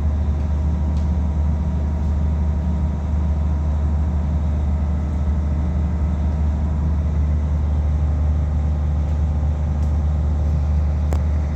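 Steady low mechanical hum, like an engine or generator running, holding at an even level throughout.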